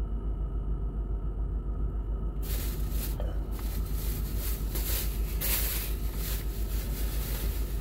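Low, steady rumble of a car engine idling, heard inside the cabin, with a regular pulse. About two and a half seconds in, a rustling hiss that rises and falls joins it: the phone rubbing against clothing as it is handled.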